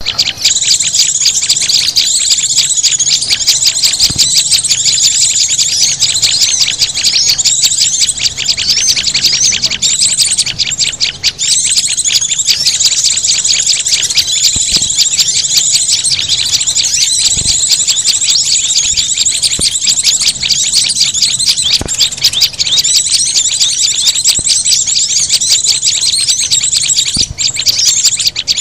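Bird-lure recording of mixed small songbird calls (white-eye, prinia, sunbird, flowerpecker) layered together: a loud, unbroken stream of rapid, high-pitched chirps and twitters, used to draw small wild birds in.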